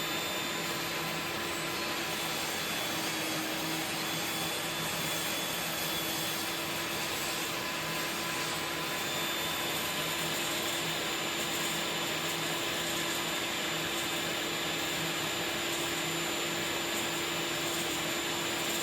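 Table saw running with a steady, unchanging whir and hum during a slow miter cut.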